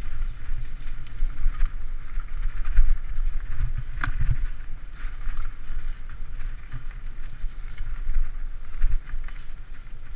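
Mountain bike riding over a dirt singletrack: wind rumbling on the microphone, with tyre noise and scattered knocks and rattles from the bike over the ground, one sharper knock about four seconds in.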